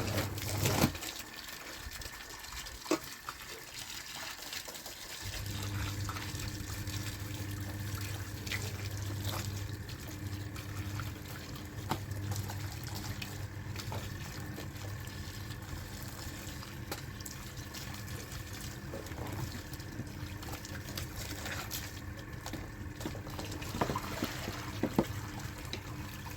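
A washing machine churning water and blankets: a steady motor hum over sloshing water. The hum cuts out about a second in and starts again some four seconds later, as the machine pauses between turns.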